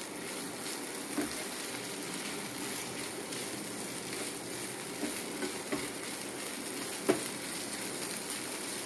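Prawns and onions sizzling steadily as they shallow-fry in oil in a non-stick frying pan, nearly cooked, while a spatula stirs them. The spatula scrapes and knocks against the pan a few times, most sharply about seven seconds in.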